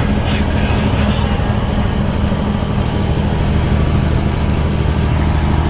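Semi truck's diesel engine running steadily under way, heard from inside the cab as an even low drone.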